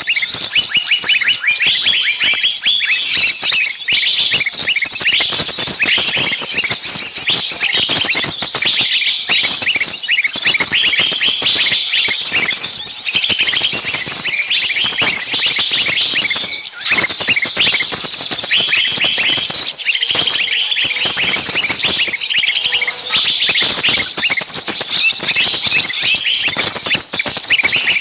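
Bird-lure recording of many small songbirds calling at once: a dense, noisy chorus of rapid, overlapping shrill chirps and quick downward-sweeping calls, with a brief lull about seventeen seconds in. The calls are the screaming, agitated kind, as of birds in distress, used to draw small birds in.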